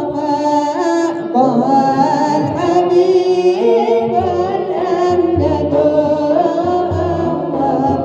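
A man singing an Arabic devotional chant in praise of the Prophet, unaccompanied at first, in a long melismatic line with wavering, ornamented pitch. A low steady tone enters underneath about halfway through.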